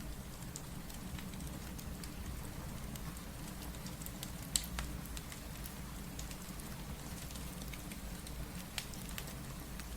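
Steady rain with a wood fire crackling over it: scattered sharp pops, the loudest about halfway through and another near the end.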